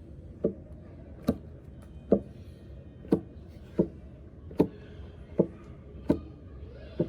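Knife chopping in an even rhythm, nine sharp chops a little more than one a second.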